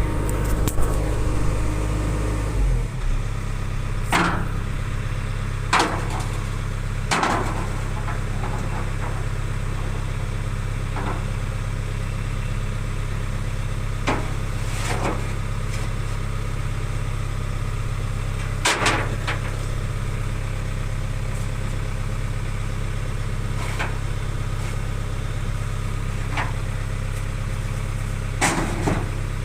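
Tractor engine idling steadily, settling to a lower even idle about three seconds in, with occasional sharp knocks and clanks on top.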